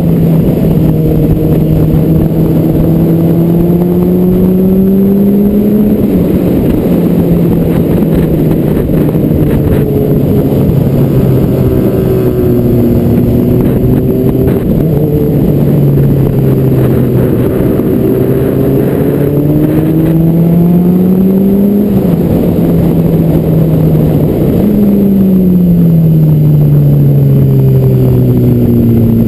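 Car engine under way, pulling through the gears: its pitch climbs and drops sharply at gear changes about 6 and 22 seconds in, and sinks slowly as the car eases off in between.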